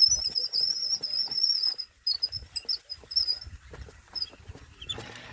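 A bird singing: one long, high, wavering note lasting about two seconds, then a string of short high chirps.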